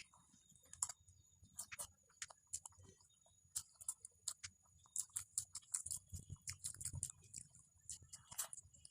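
A person chewing food close to the microphone: irregular wet clicks and smacks of the mouth, with a brief lull a couple of seconds in.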